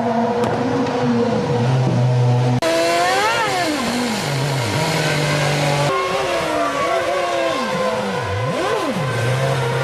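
Formula 1 race car engines, their pitch rising and falling over and over as they rev up and down. The sound changes abruptly twice, as the footage cuts between shots.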